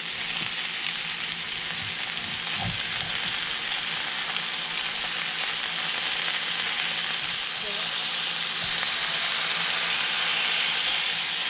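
Marinated chicken pieces sizzling steadily in a hot grill pan, with a few faint knocks as the pieces are turned over.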